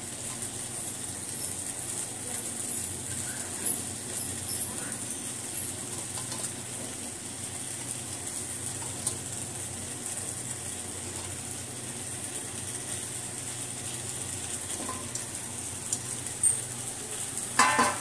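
Thick masala gravy sizzling and crackling gently in a stainless steel kadai on a low flame, with soft clicks as halved boiled eggs are set into the pan one by one, and a couple of louder knocks near the end.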